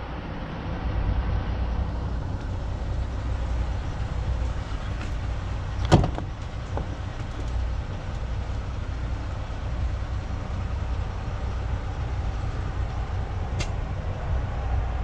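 Steady low rumble of an idling vehicle engine, with one sharp knock about six seconds in and a fainter click near the end, as things in the truck cab are handled.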